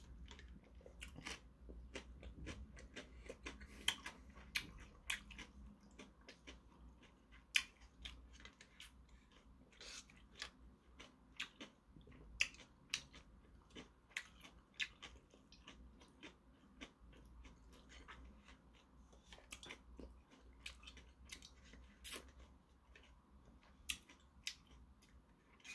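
Faint, irregular mouth clicks and lip smacks of a person chewing and sipping banana milk through a straw, with a few sharper clicks scattered throughout.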